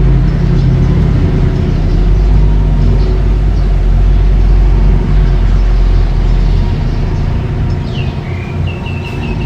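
Mini bulldozer's engine running steadily, easing off a little near the end. A bird chirps repeatedly near the end.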